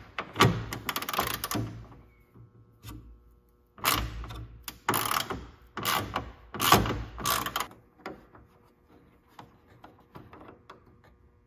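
A tool working loose bolts on a truck's front trim, in two spells of mechanical noise: one of about two seconds at the start and one of about three and a half seconds from about four seconds in.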